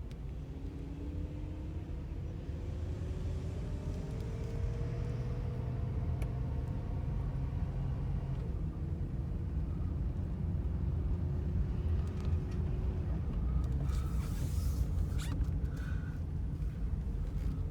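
Mercedes 500SL's M119 V8 heard from inside the cabin while driving, with a deep rumble under it. The engine note rises steadily for several seconds as the car accelerates, drops about eight seconds in, then holds steady.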